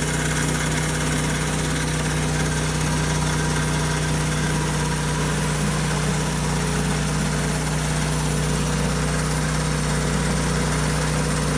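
Norwood bandsaw mill's engine running steadily at an even pitch, with no change in level.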